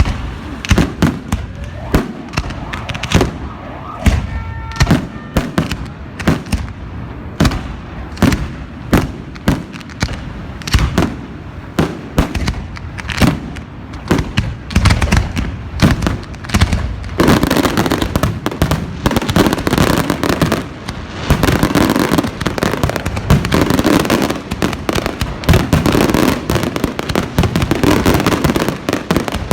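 Fireworks display: a fast string of sharp bangs, several a second, that turns into a dense, almost unbroken barrage about seventeen seconds in.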